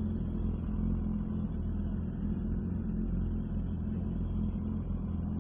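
Yamaha R6 sport bike's inline-four engine running with a steady, low engine note; the pitch holds even throughout, with no revving.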